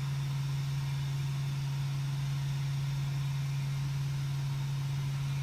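Desktop 3D printer running with a steady low hum, just after printing has been started.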